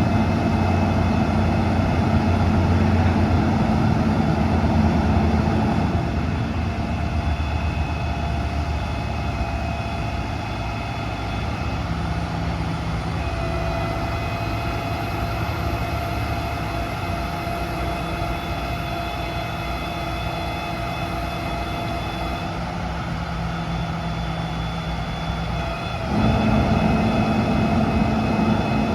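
Truck's Cummins 6.7-litre diesel engine running steadily with a faint whine on top. The note drops to a quieter, lower level about six seconds in and steps back up again near the end.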